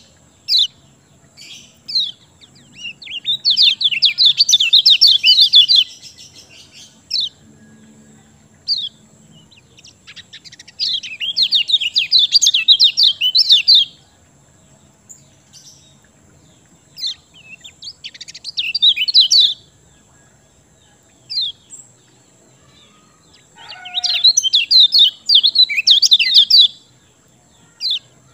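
Kecial kuning songbird singing in full voice: four bursts of rapid, high twittering, each lasting a few seconds, with single short chirps between them.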